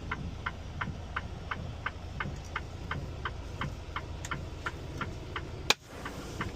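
Semi-truck cab's turn-signal flasher clicking steadily, about three clicks a second, over the low rumble of the idling engine. One louder sharp click comes near the end.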